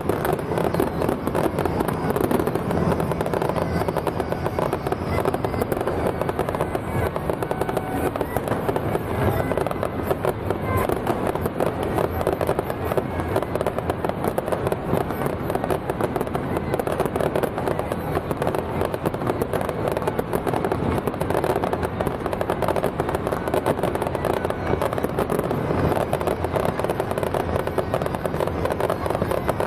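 Fireworks crackling densely and without a break, many small bangs running together at a steady level.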